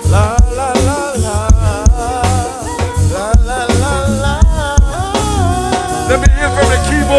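A live band playing a soul-reggae song with a steady drum beat and bass, a voice or lead line weaving over it.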